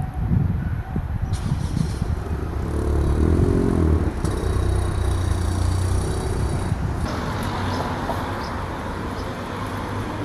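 Road traffic: a steady rumble of vehicles driving past, loudest about three to four seconds in.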